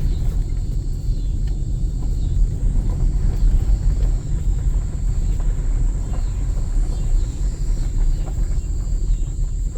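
Steady rumble of a vehicle's engine and road noise heard from inside the cabin, with a faint steady high whine above it.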